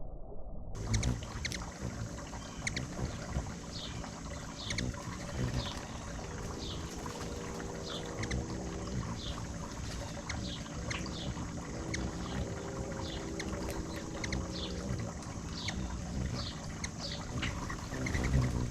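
Ruby-throated hummingbirds chipping: short, high, downward-sliding chip notes repeated about every half second. A low rumble runs underneath, and at times there is a faint buzzing hum of wing beats.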